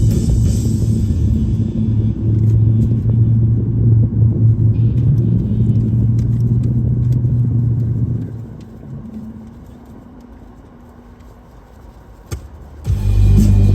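Steady low mechanical rumble with a hum, like a vehicle heard from close by. It fades to a much quieter level about eight seconds in, a single click sounds near the end, and the rumble comes back abruptly just before the end.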